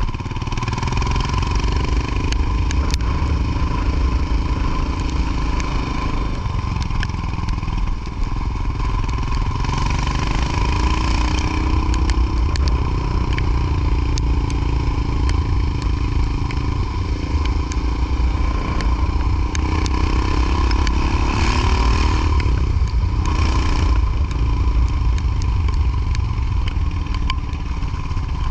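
Motorcycle engine running while riding, the engine note rising and falling as the revs change, over a steady low rumble.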